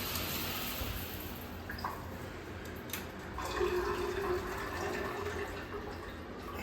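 Shower running: a steady spray of water from the showerhead.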